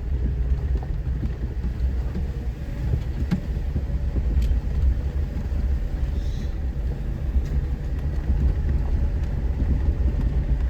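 Off-road vehicle driving a rough dirt trail: a steady, deep engine and road rumble with a few sharp knocks and rattles from the bumpy ground.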